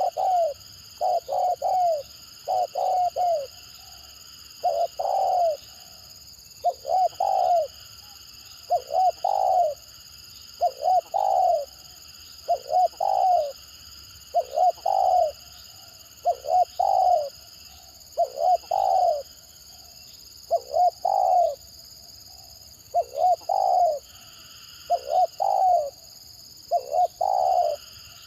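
Spotted dove cooing over and over in short broken clusters of two or three notes, the halting 'stuttering' call, with a pause of a second or so between phrases. A steady faint high hiss runs underneath.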